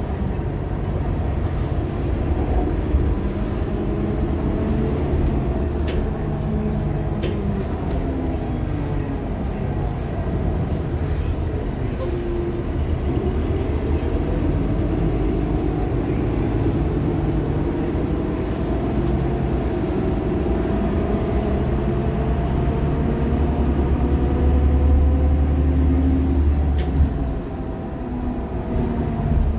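2015 Nova LFSA hybrid articulated bus running on the road, its Cummins ISL9 diesel and Allison H50 EP hybrid drive rumbling and whining as the pitch rises and falls with speed. A faint high-pitched whine climbs slowly through the second half and drops away near the end.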